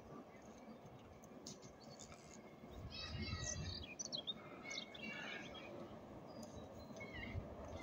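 Small songbirds chirping and trilling in short, scattered phrases, busiest a few seconds in, over faint outdoor hiss. A low rumble swells briefly partway through.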